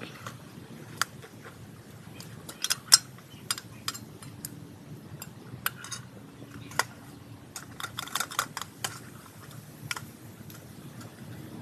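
Scattered light clinks and taps of cooking utensils and camp cookware being handled, the loudest about three seconds in and a quick run of them around eight seconds.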